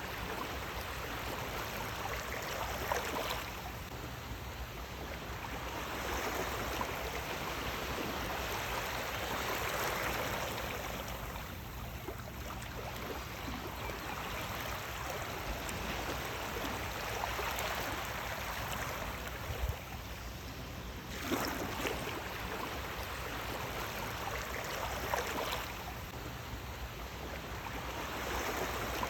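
Sea waves washing onto the shore, the rush swelling and fading every few seconds, with a splash now and then as a wave breaks.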